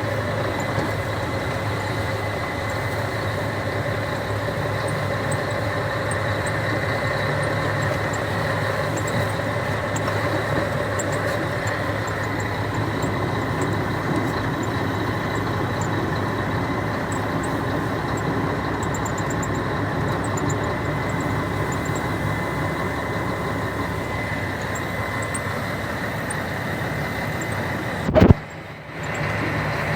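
Scania 113 truck's six-cylinder diesel engine running steadily. Near the end there is a single sharp loud knock, then the sound drops away for about a second before the engine returns.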